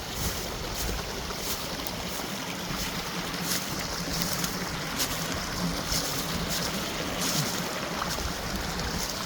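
Creek water rushing steadily, with scattered short crackles over it.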